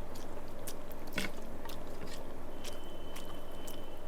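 A person chewing a mouthful of rice and fish curry, with scattered wet mouth clicks, over a steady low hum. A thin high tone comes in about two-thirds of the way through and stops near the end.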